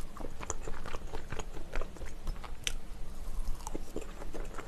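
Close-up eating sounds: a person chewing and biting food, with many small, irregular crunches and clicks.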